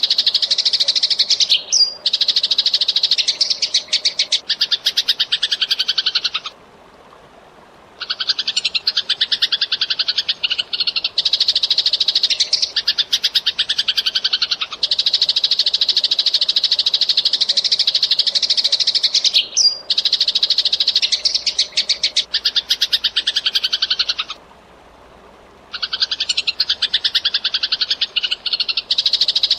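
Eurasian tree sparrows chirping very fast and densely, a packed run of high chirps with two short breaks of about a second and a half, one near the quarter mark and one near the end.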